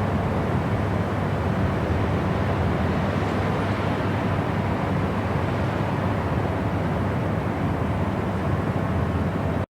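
Steady, even noise from a white-noise study and sleep track, weighted toward the low end so it sounds like a deep hiss, with no tones or rhythm.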